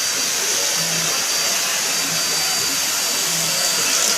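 Deerma DX700 handheld vacuum cleaner running steadily: an even, high-pitched rushing hiss of air with a thin steady whine from the motor.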